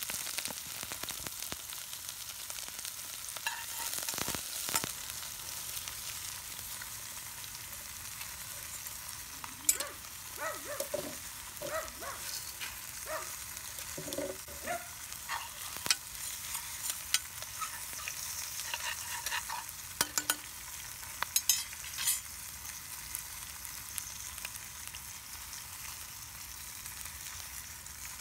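Chopped onion and garlic, then drained wild rice, sizzling in oil in an enamelled cast-iron Dutch oven, a steady hiss. A utensil scrapes and clicks against the pot as it is stirred, mostly in the middle stretch.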